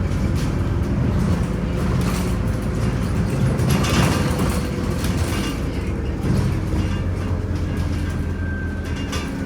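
Scania OmniCity city bus on the move, heard from inside: its diesel engine runs with a steady low drone under road noise, with scattered interior rattles and clicks.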